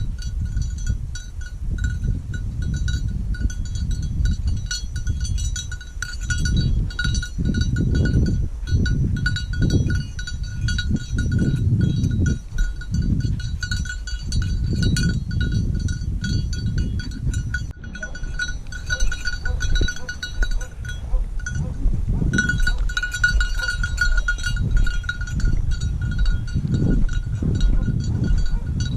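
A small bell on a hunting dog's collar jingling steadily as the dog moves, over gusts of wind rumbling on the microphone.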